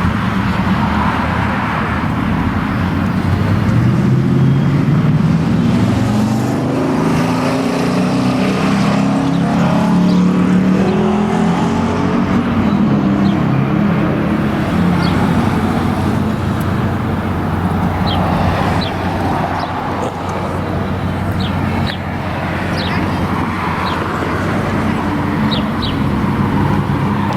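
Car engine running: its note climbs over several seconds as the car pulls away or passes, then settles into a steady low drone.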